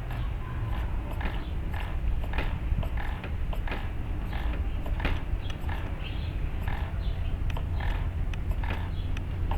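Irregular small creaks and clicks from an RC helicopter's tail mechanism being handled and cleaned of grass, over a steady low rumble.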